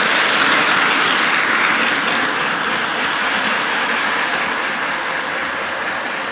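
Lionel 0-8-0 model steam train running around its track, a steady rushing hiss and rumble from the wheels, motor and tender speaker.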